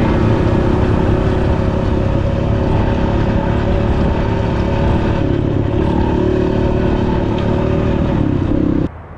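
Dirt bike engine running steadily under way, with wind and riding noise; it cuts off suddenly near the end.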